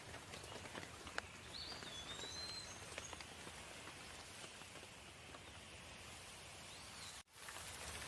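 Steady light rain with scattered drops pattering, and a few short bird chirps. The sound cuts out for a split second about seven seconds in.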